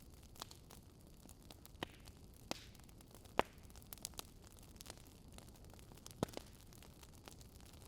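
Burning wood crackling: a low steady hiss with scattered sharp pops and snaps, the loudest a little under halfway through.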